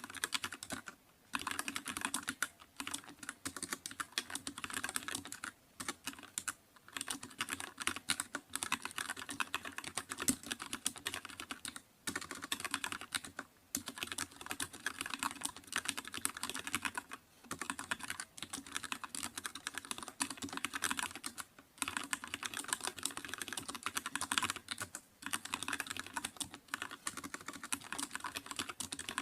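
Continuous fast typing on a computer keyboard, rapid key clicks in runs of a few seconds with brief pauses between them.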